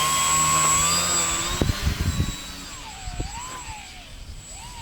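EPP foam Extra RC airplane's motor and propeller whining in flight, steady at first, then quieter about halfway through while the pitch wavers up and down.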